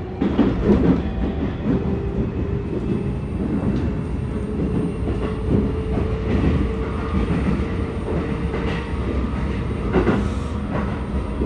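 Keikyu 1000 series commuter train heard from inside the car while running: a steady rumble of wheels and motors with a faint whine from the Toshiba permanent-magnet traction motors, edging slowly up in pitch. The wheels knock over rail joints near the start and again about ten seconds in.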